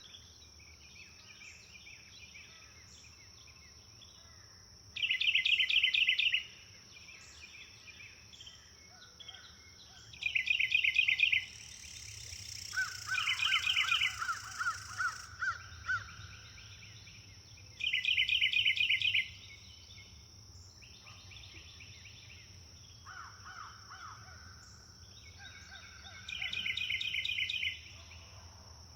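Songbirds in a wood: one bird repeats a short, fast trill five times, some seconds apart, while another gives a lower, rapid run of calls once in the middle. A steady high insect-like tone runs underneath.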